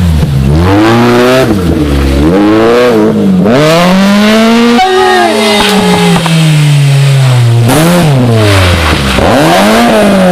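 Rally car engine revving hard through gear changes, its pitch climbing and dropping several times. About halfway through the pitch falls steadily for a few seconds as the car slows, then it picks up and revs again.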